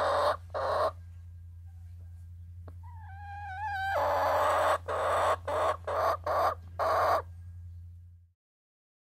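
Hens calling: a short squawk or two at the start, then, about three seconds in, a pitched call that rises and leads into a loud squawk, followed by a run of five short squawks. A steady low hum runs underneath, and all sound cuts off abruptly near the end.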